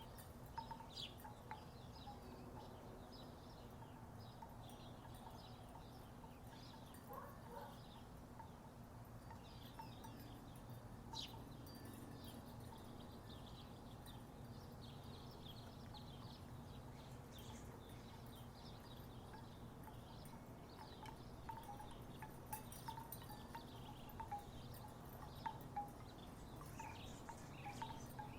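Wooden tiki wind chimes knocking together in soft, scattered clacks that come more often in the last few seconds. Under them runs a faint steady low hum.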